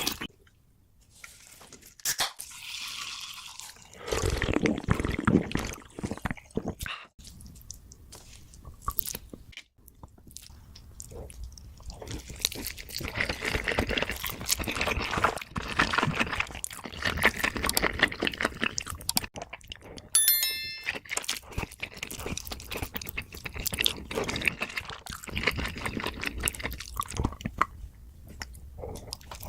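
Close-miked eating: crunching, biting, chewing and wet, slurpy mouth sounds, a dense run of small crackles that grows busier after about twelve seconds. A brief high ringing tone sounds about twenty seconds in.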